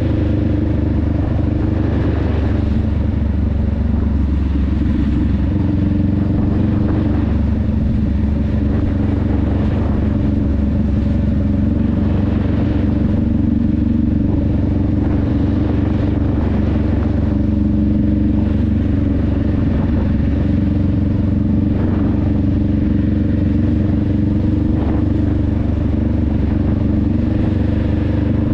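Honda Rebel 500's parallel-twin engine and exhaust running steadily while riding at a fairly even cruising speed, the pitch wavering only slightly.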